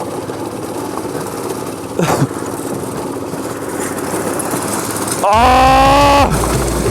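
Go-kart's small engine running steadily. About five seconds in, a loud held tone with a brief upward slide lasts about a second and cuts off, with a heavy low rumble starting at the same moment and carrying on.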